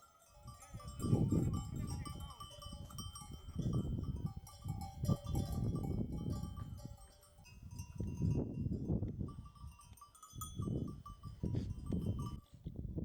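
Sheep bleating again and again, several calls a few seconds apart, over a faint steady ringing of bells.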